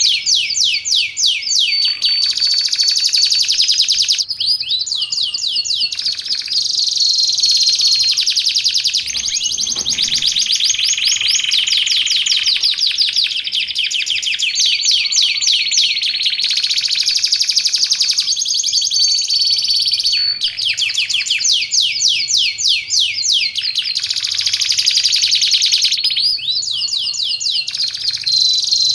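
Domestic canary singing a long, unbroken song of rapid trills, switching to a new trill phrase every few seconds.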